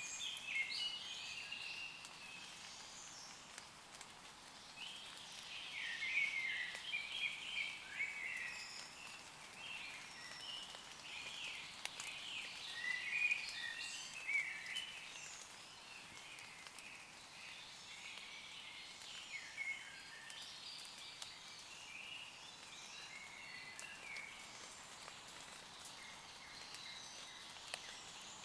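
Woodland birds singing, many short chirps and quick rising and falling phrases overlapping, busiest in the first half, over light rain dripping on leaves.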